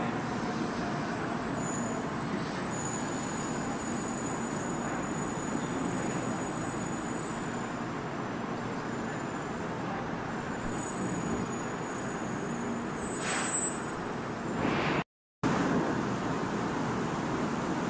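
Kyushu Shinkansen train moving slowly along the platform: a steady rumble of wheels and running gear with faint high whines coming and going. The sound drops out completely for a moment about 15 seconds in, where the recording cuts.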